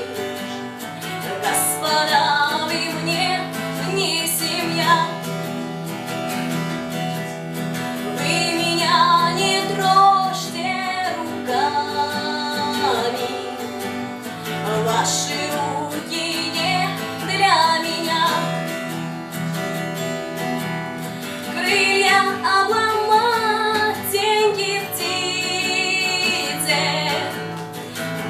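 A woman singing a slow, flowing melody over a plucked acoustic guitar accompaniment.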